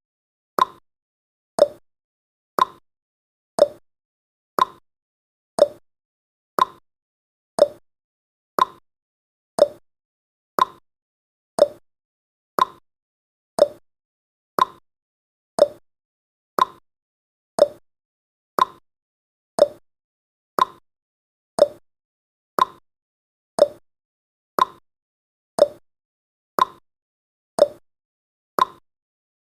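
Clock ticking sound effect: one short, sharp tick every second, evenly spaced, alternating between a higher and a lower tick like a tick-tock.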